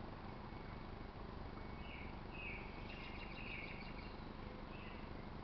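Birds chirping: a run of short, high notes starting about two seconds in, over a steady outdoor background hiss.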